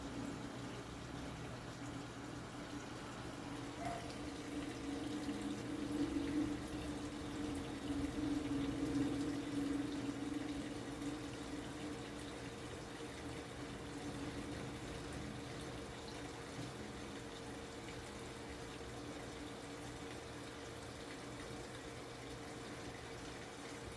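TCL 7.5 kg top-load washing machine taking in water: a steady rush of running water with a low hum, a little louder from about five to eleven seconds in.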